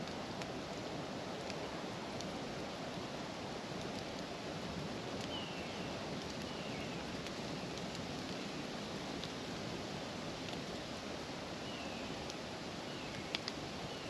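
Steady outdoor ambience: an even rushing noise, with a few faint short descending chirps from a bird scattered through it and a couple of sharp clicks near the end.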